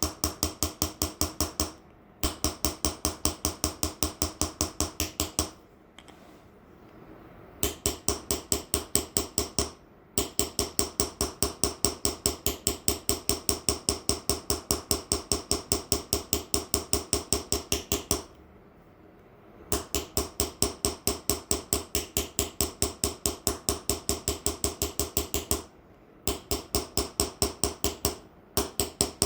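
Small hammer tapping an engraving chisel into a metal plate in Persian hand engraving (ghalamzani): quick, even strokes about six a second with a ringing metallic tone, in runs broken by short pauses.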